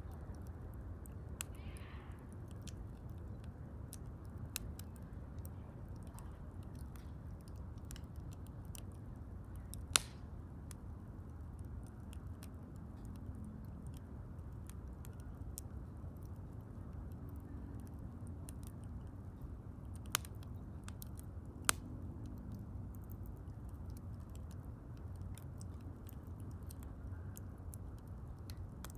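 Wood fire crackling with frequent small snaps over a steady low rumble, and three louder pops, one about ten seconds in and two more close together around twenty seconds.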